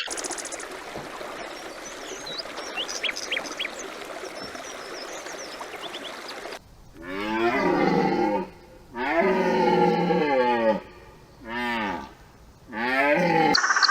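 A few seconds of outdoor background noise with faint bird chirps, then, after an abrupt cut, a cow mooing four times: long low calls, the later ones shorter.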